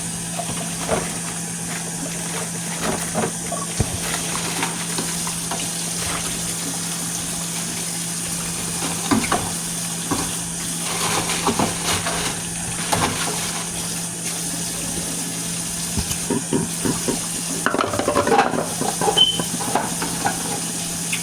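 Dishes and containers being handled in a kitchen, with scattered knocks and clatters that get busier near the end, over a steady hum and hiss.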